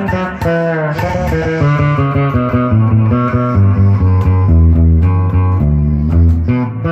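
Electric bass guitar (the renovated 'Phat Bird') played solo, picking out a melodic line of separate plucked notes. It opens with bent and sliding notes and settles into low held notes in the middle.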